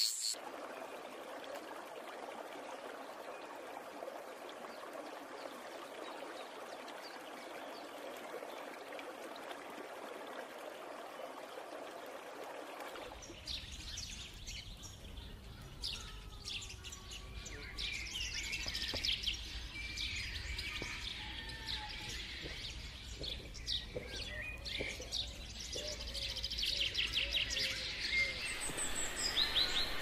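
A steady, even hiss for about the first thirteen seconds. Then the sound changes to tropical forest ambience: many small birds chirping and calling over a low rumble, with high insect-like trills growing busier toward the end.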